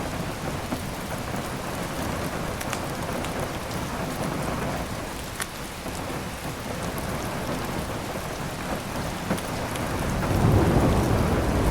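Steady heavy rain with scattered sharp crackles from a wood fire. A low rumble of thunder builds near the end.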